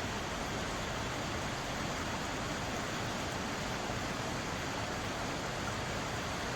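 Mountain valley stream flowing over rocks, a steady, even rushing of water.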